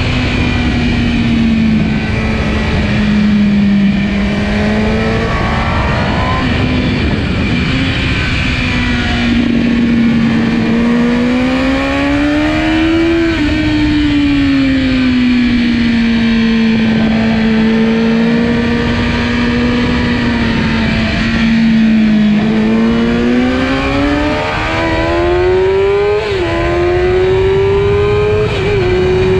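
Kawasaki ZX10R inline-four sportbike engine at racing speed, its pitch rising under acceleration and falling off through corners, with two quick upshifts near the end, over steady wind noise.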